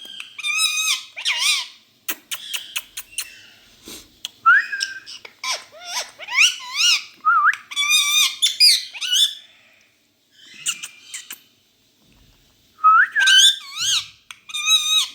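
Indian ringneck parrot (rose-ringed parakeet) calling and chattering in bouts of wavering, warbling whistled notes, with a few sharp clicks and short pauses between bouts.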